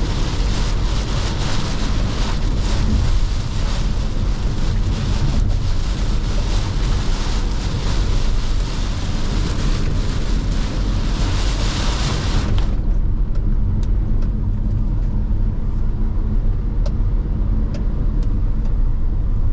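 Car driving in heavy rain: a steady low road rumble under a dense hiss of rain on the car. The hiss cuts off suddenly about two-thirds of the way through, leaving the rumble and a few scattered ticks of drops.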